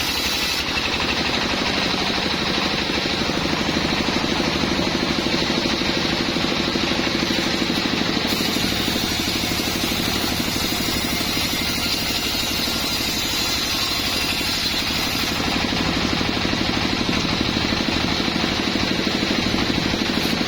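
Small sawmill's engine running steadily with a fast, even pulsing; its tone shifts slightly about fifteen seconds in.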